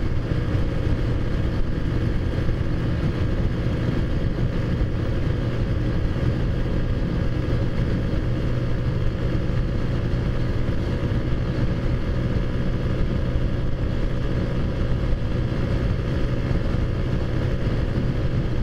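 Taotao Zummer scooter's small four-stroke engine running steadily at a constant cruising speed.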